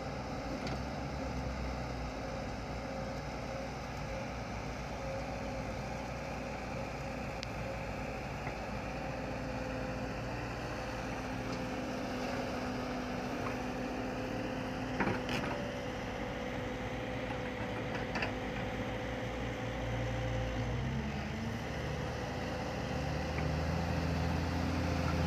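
A vehicle's motor running steadily with a held hum, its pitch dipping briefly about 21 seconds in, with two sharp clicks partway through.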